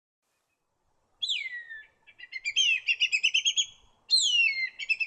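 Whistling kite calling twice: each call a long, falling whistle followed by a quick run of short, rising whistled notes. The first call starts about a second in, the second about four seconds in.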